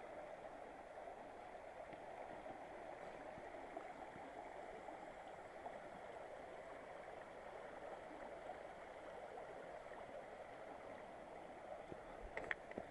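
Mountain river water rushing over rocks and small falls, a steady, even flow. A brief click near the end.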